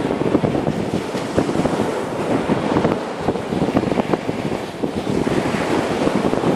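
Ocean surf washing steadily, with wind buffeting the microphone in uneven gusts.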